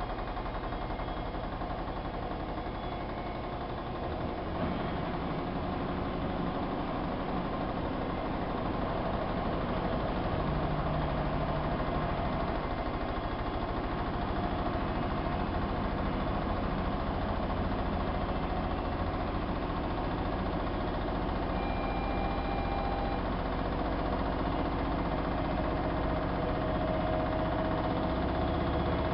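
Siemens iQ WIQ1430 washing machine running, its drum motor turning steadily. It grows a little louder over the first ten seconds, and a faint whine rises slightly near the end.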